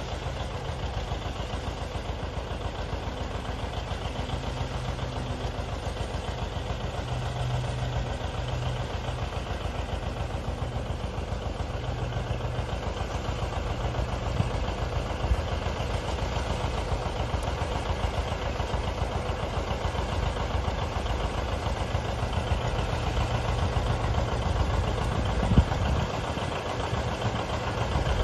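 Tractor engine running steadily with a fast, even firing beat. A single sharp knock sounds near the end.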